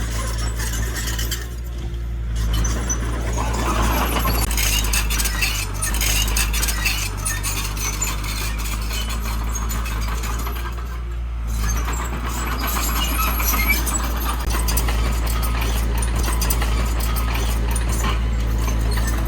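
Diesel engine of heavy earthmoving machinery running steadily, with metallic clinking and squeaks over the low rumble.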